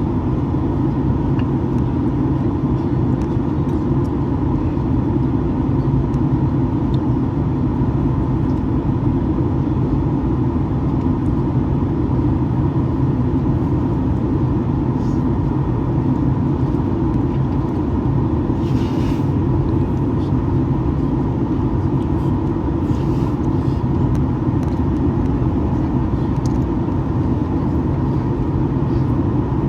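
Steady cabin noise inside a Boeing 737-800 in flight: the drone of its CFM56 turbofan engines and the airflow, with a constant hum and no change in pitch.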